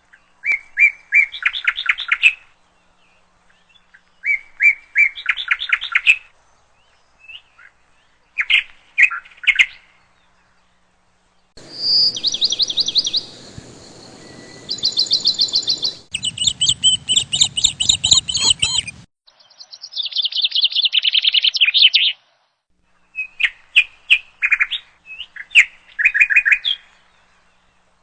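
Rapid trills of high chirping calls in bursts of one to two seconds, repeated with short pauses between them. Through the middle stretch a low rumbling noise sits under the chirps.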